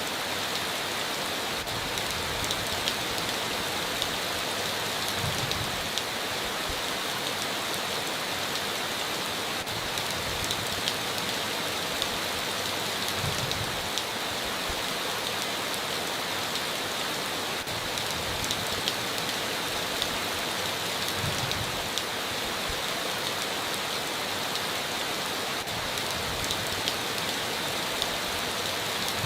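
Steady heavy rain on a tin roof, with scattered sharper drop hits and a few brief low thuds.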